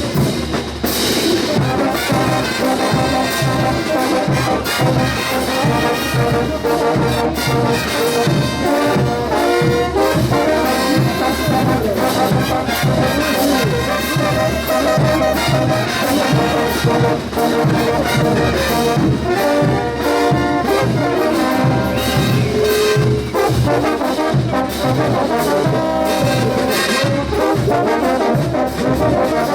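Bolivian brass band playing a ch'uta carnival tune: trumpets and trombones carry the melody over a steady, evenly spaced drum beat.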